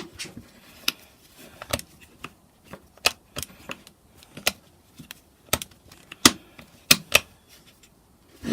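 Irregular sharp plastic clicks and small knocks from the switches and levers of an unpowered Ryobi 500 W jigsaw being worked by hand, with some clicks louder than others.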